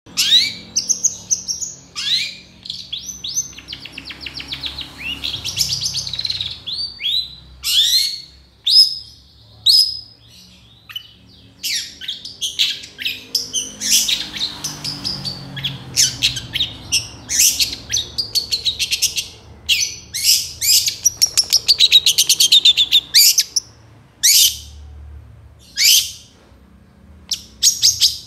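Long-tailed shrike (cendet) singing hard: rapid trains of sharp, high chattering notes and quick sweeping whistles, in bursts with short pauses between them.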